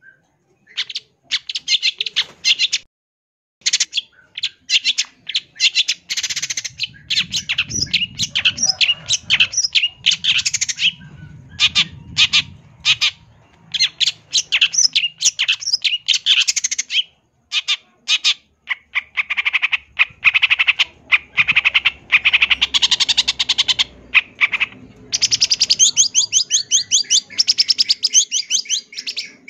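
Long-tailed shrike (cendet) singing a fast, varied song of rapid harsh chattering notes and squawks, with quick rattling trills toward the end. It is the full, mimicry-filled song that bird keepers use to train other birds.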